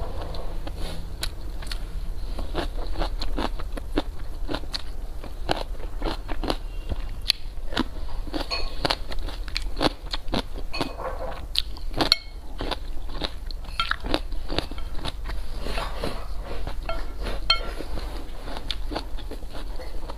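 Close-miked mouth sounds of someone eating boiled eggs and spicy fire noodles: continual chewing and biting with many sharp, irregular clicks.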